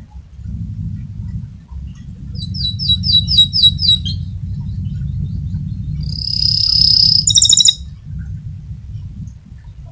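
Domestic canary singing: a quick series of repeated high chirps about two seconds in, then a long rolling trill held for about a second, ending in a short loud burst of rapid notes. A steady low rumble sits underneath.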